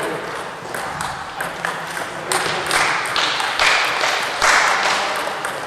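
Table tennis rally: the ball clicking in quick, irregular succession off bats and table.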